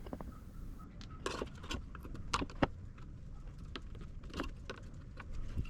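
Scattered light metallic clicks and clinks at irregular intervals: small metal parts being handled while bolting a stand's legs onto brackets.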